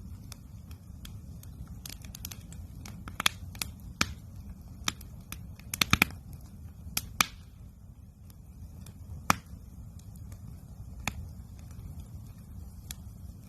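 Wood campfire crackling, with irregular sharp pops, several in quick succession about six seconds in, over a steady low rumble.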